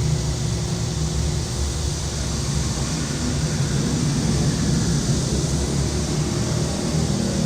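A vehicle engine runs close by with a steady low rumble, over an even hiss. The rumble grows slightly louder toward the end.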